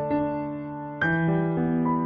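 Soft electric piano music, sustained notes with a new chord struck about a second in.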